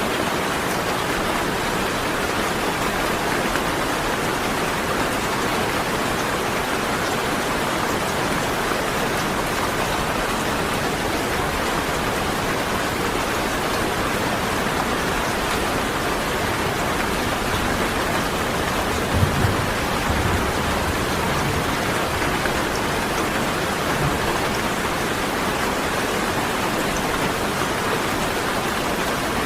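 Steady heavy rain falling, an even hiss of drops, with two brief low thumps about two-thirds of the way through.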